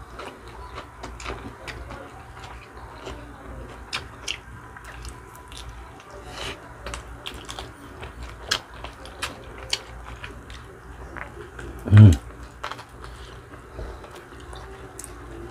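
Close-miked eating sounds: chewing and sucking on spicy adobo chicken feet, with many short wet mouth clicks and lip smacks, and one brief louder low thump about twelve seconds in.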